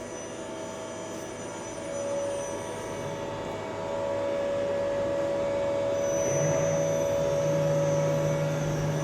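CNC machine running with a steady mechanical hum and whine, a little louder from about two seconds in; a second, lower steady hum joins about six seconds in.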